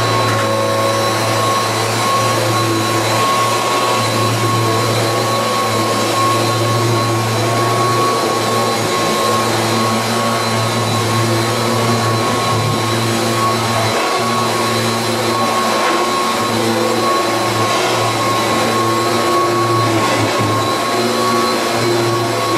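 1986 Kirby Heritage 2 vacuum cleaner running steadily, with a constant motor whine over a low hum.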